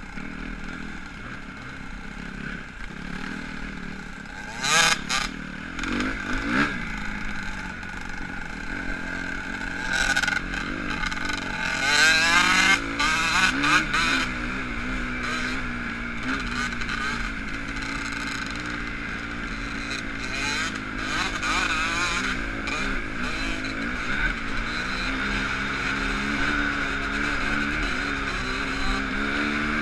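Motocross bike engine running and revving, its pitch rising and falling repeatedly, with loud revs about five seconds in and again about twelve to fourteen seconds in.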